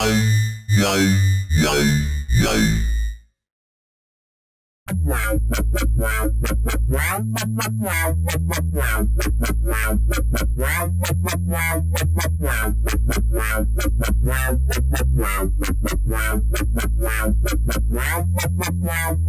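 Cherry Audio Sines additive software synthesizer playing a preset: first a few short, sweeping notes that stop after about three seconds. After a brief silence comes a rapidly pulsing electronic sequence over a low bass line that moves between a few notes.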